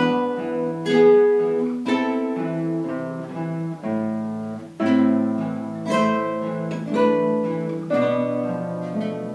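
Guitar ensemble playing an instrumental piece on acoustic guitars, with plucked chords and melody notes struck about once a second, each ringing on until the next.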